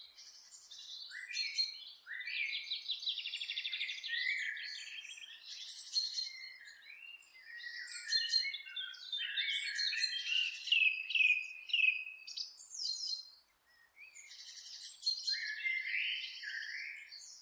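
Several songbirds singing and chirping together, with rapid trills and whistled phrases overlapping, briefly pausing about three-quarters of the way through.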